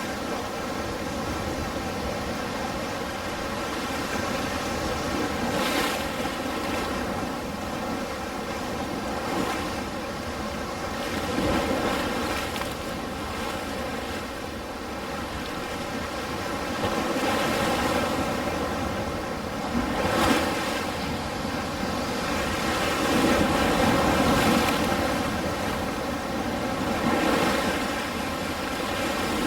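Ocean surf: waves breaking and washing in, a continuous rushing noise that swells every few seconds and eases back.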